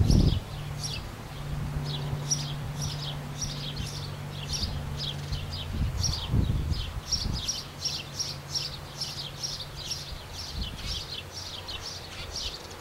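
A small bird chirping over and over, about three short high chirps a second, over a steady low hum. Low rumbles come at the very start and again around six seconds in.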